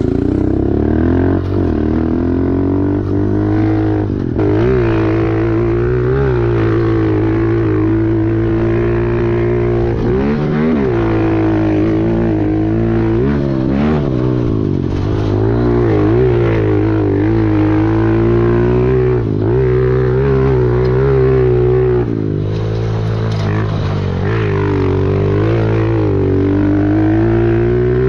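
Pit bike engine ridden hard round a track, its revs rising and dropping every second or two with throttle and gear changes.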